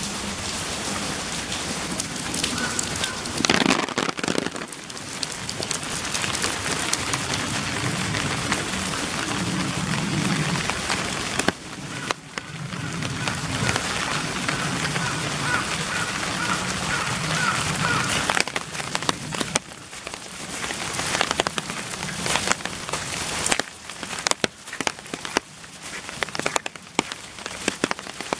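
Heavy rain falling steadily, with many separate drops striking close by. About two-thirds of the way in the steady hiss thins and breaks into scattered, sharper drips.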